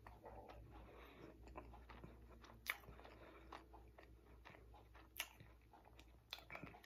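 Faint chewing of a mouthful of crumb-coated fried flounder, mouth closed: soft wet mouth clicks, with two sharper clicks about two and a half and five seconds in.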